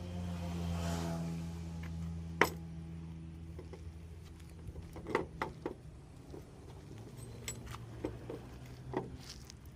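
Metal tools and parts clinking against metal in several sharp, separate knocks, the loudest about two and a half seconds in, over a steady low machine hum; at the start a spinning tool or motor winds down with its pitch falling.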